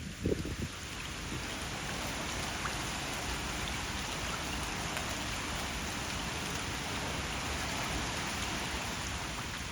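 Steady rain falling, an even hiss of drops, with a brief low thump in the first half-second.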